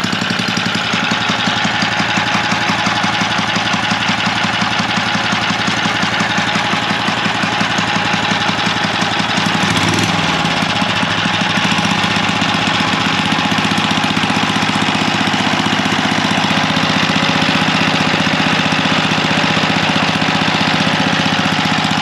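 A Craftsman edger's 3-horsepower Tecumseh small engine running steadily at speed. About halfway through, its pitch briefly wavers, and it runs slightly louder afterwards.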